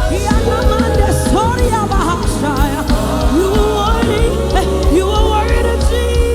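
Gospel worship band playing, with a steady bass and drum beat and a voice singing over it.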